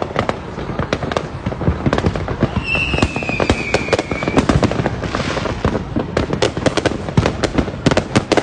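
Many fireworks and firecrackers going off at once, a dense, irregular run of sharp bangs and pops. A whistling firework sounds for about a second and a half, about three seconds in, falling slightly in pitch. A short hiss follows about five seconds in.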